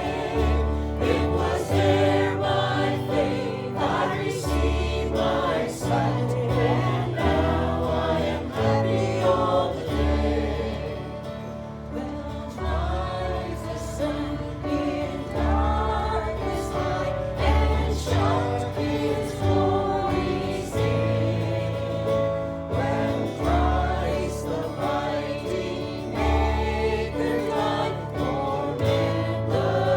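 Many voices singing a gospel hymn together over instrumental accompaniment, with a bass line that moves in long held notes.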